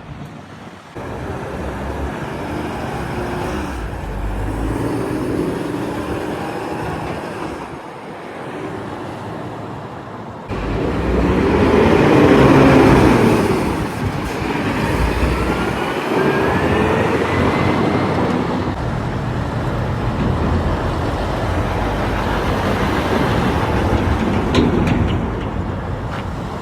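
Heavy trucks driving past on a road, engines and tyres, with the engine pitch gliding as they go by; the loudest pass comes about twelve seconds in.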